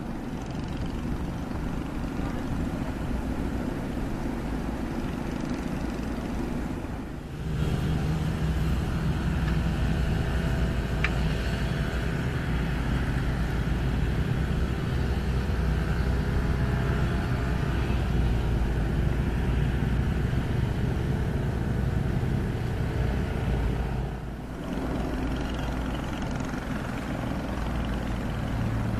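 Komatsu excavator's diesel engine running steadily, working. It grows louder, with a steadier hum, from about a quarter of the way in until near the end, and drops briefly at each of those two changes.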